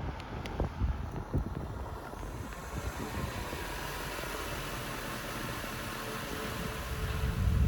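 Car on the move with wind buffeting the microphone: low thumps in the first second or so, then a steady rushing noise that swells into a loud low rumble near the end.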